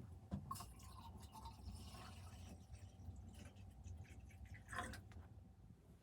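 Faint small handling noises: scattered clicks and scrapes, with a louder scrape about five seconds in, over a faint steady hum.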